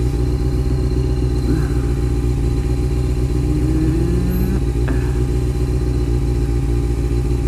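Honda CBR motorcycle engine running steadily. A second engine tone rises slowly in pitch from about a second and a half in and stops suddenly just past the middle.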